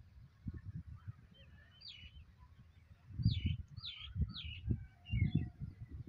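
Bird calling: a short phrase about two seconds in, then three quick repeated notes, over low gusty rumbles of wind buffeting the microphone, which are louder than the birds.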